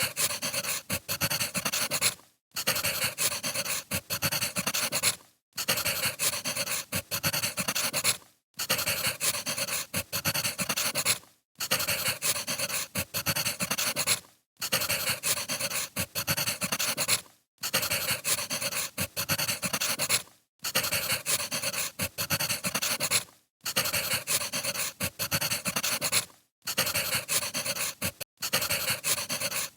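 Wood fire crackling and popping: a short recording of about three seconds, looped, with a brief silent gap between each repeat.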